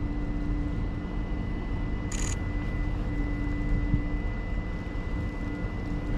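City street traffic: a steady low rumble of vehicles with a constant engine-like hum, and a short high-pitched chirp about two seconds in.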